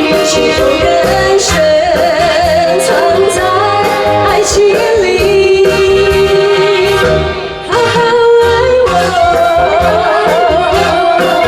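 A woman singing a pop song live with vibrato over a backing band with drums, the music dropping briefly about seven and a half seconds in before picking up again.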